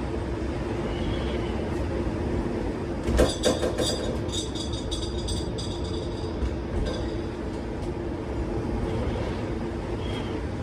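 Strong storm wind gusting with a steady rumble. About three seconds in, a burst of rattling, clattering metal rings out for a few seconds.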